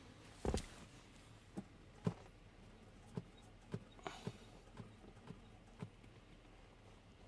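About ten short knocks and clicks at irregular intervals, the first a loud double knock.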